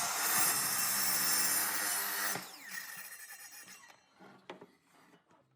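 An electric power tool running at full speed, switched off about two and a half seconds in and winding down with a falling whine, followed by a few light knocks.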